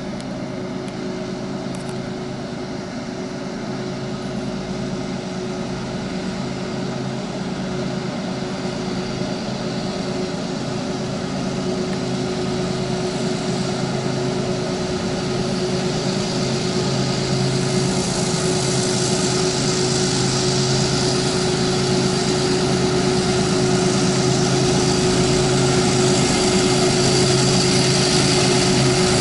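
Diesel locomotives of a loaded coal train working steadily, with a constant whine above the engine drone, growing gradually louder as they draw closer.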